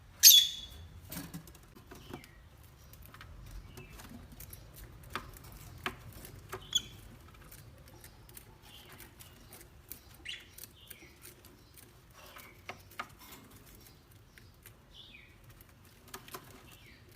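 Pet parrots: one loud harsh squawk right at the start, then scattered short chirps and many small clicks and taps as the birds move about.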